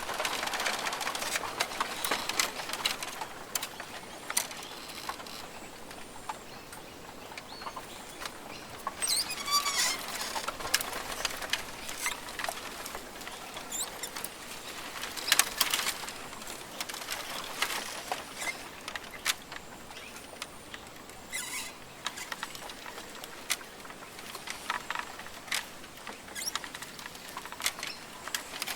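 Rainforest ambience: a steady high hiss with many irregular sharp ticks and patters, and a few short bird calls, one cluster about ten seconds in.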